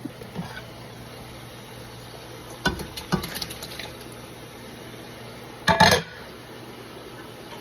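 Kitchen pots and utensils clattering: a few sharp clinks about three seconds in, then a louder clatter near six seconds, over a steady low hum.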